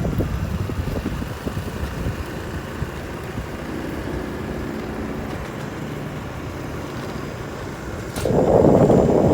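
Motorcycle engine running steadily while riding, with a low rumble. A sharp click comes about eight seconds in, followed by a much louder burst of noise near the end.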